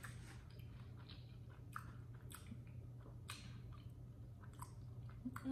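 A person chewing food with the mouth closed: faint, scattered wet smacks and clicks, about one every second or so.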